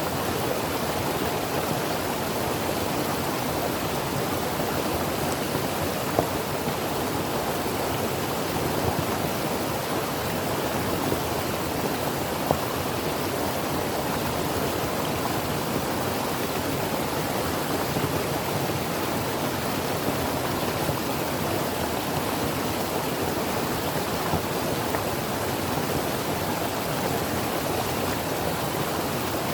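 Creek water flowing over rocks: a steady rushing babble with small splashes now and then.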